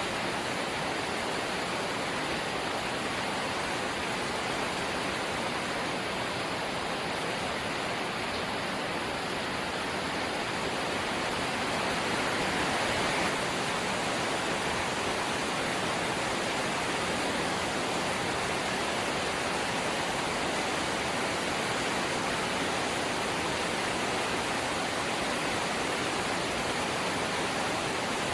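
Light rain falling steadily, an even hiss of rain noise that swells slightly about twelve seconds in.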